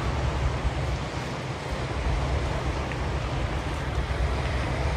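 Wind buffeting the microphone of a bike-mounted action camera while riding, a steady low rush with no distinct events.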